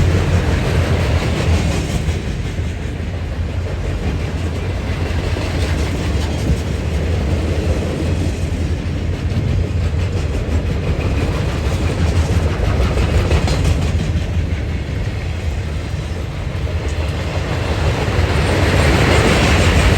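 A train rolling past on the tracks: a steady, loud rumble that swells again near the end.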